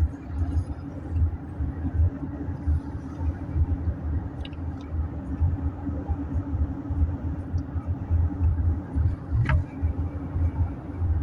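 Steady road and engine rumble inside a moving car's cabin, with one sharp click near the end.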